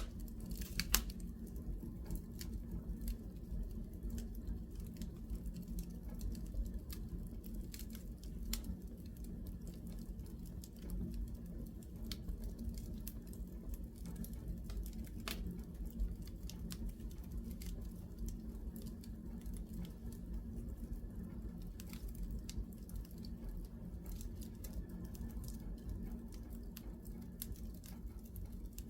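Wood fire in a fireplace crackling: scattered sharp pops and snaps over a low, steady rumble, with one louder pop about a second in.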